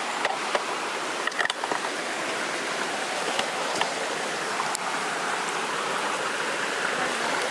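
Steady rush of water from a rainforest waterfall and creek.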